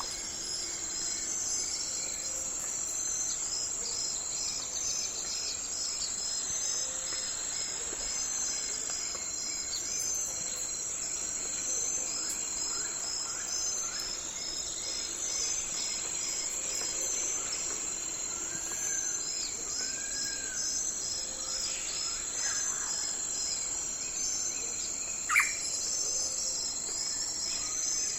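Night forest ambience: a steady chorus of crickets and other insects chirping in fast, even pulses, high in pitch. A few soft bird calls come through, and one short, sharp call falling in pitch about 25 seconds in is the loudest sound.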